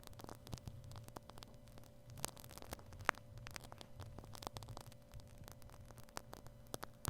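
Shaving cream squished and rubbed over a binaural microphone's ear: a dense, irregular run of small crackles and pops, one louder about three seconds in, over a faint steady hum.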